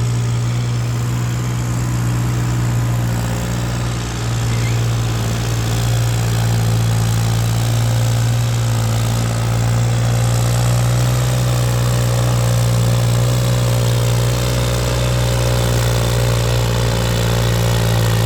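New Holland 3630 tractor's diesel engine idling steadily, with a slight dip in level about four seconds in.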